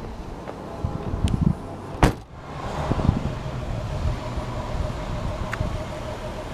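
A single hard thud about two seconds in, the Lexus GS300's trunk lid being shut, with a few lighter knocks before it and a steady low hum afterwards.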